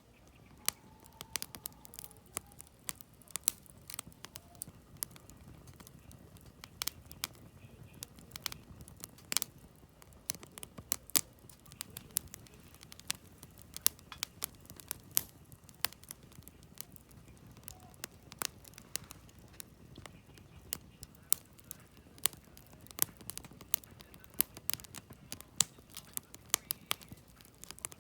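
Wood campfire crackling: logs burning with irregular sharp pops and snaps, several a second, over a soft low rush of flame.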